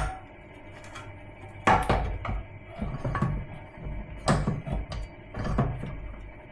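Irregular hammer blows on a spot-welded sheet-steel car-body bracket being knocked loose: one sharp knock at the very start, then a run of clanks about every half second to a second from near two seconds in.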